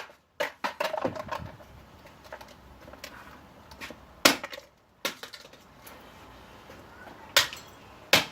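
A vacuum cleaner's motor and casing being smashed: half a dozen sharp, hard blows at irregular intervals, the loudest about four seconds in.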